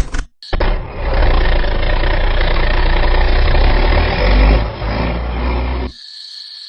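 A small motor running steadily with a low rumble, stopping abruptly about six seconds in. A quieter, thin high-pitched whine follows.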